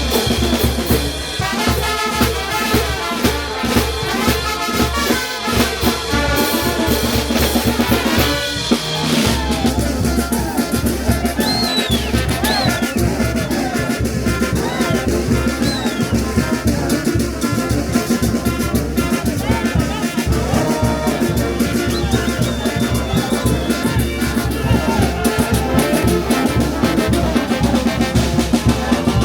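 Peruvian brass band playing festive music, brass over drums with a steady beat; the music changes abruptly about nine seconds in and carries on at the same pulse.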